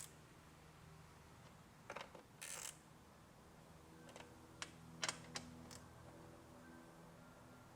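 A handful of light clicks and short rattles at irregular intervals over faint room tone, the sound of small hard parts being handled.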